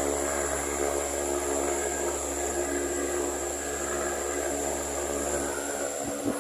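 Venti-Delta Premium 60 cm, 170 W wall fan running steadily: an even motor hum under the steady rush of air from the blades.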